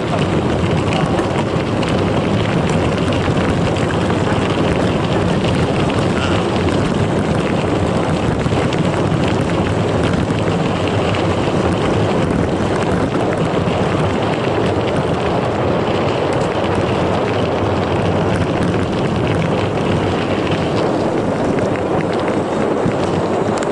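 Wind rushing over the microphone of a riding mountain biker, with the steady rolling noise of knobby mountain-bike tyres on a gravel forest road.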